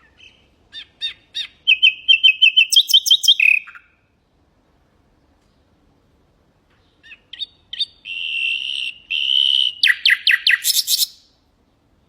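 Nightingale singing: two song phrases with a pause of about three seconds between them. Each opens with a few separate notes and runs into rapid repeated notes and a fast trill.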